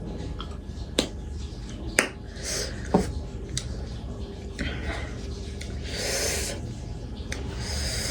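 Close-up eating sounds: mouth noises of chewing and slurping, with several sharp clicks about a second apart and short hissy bursts.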